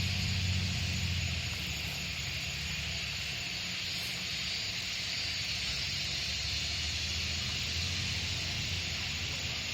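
A low, steady engine hum, as of a vehicle idling, under a constant high hiss.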